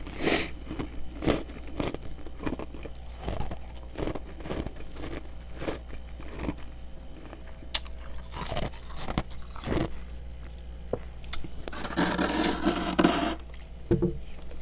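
Freezer frost being chewed, with repeated short, sharp crunches. About twelve seconds in comes a denser scraping stretch lasting about a second and a half.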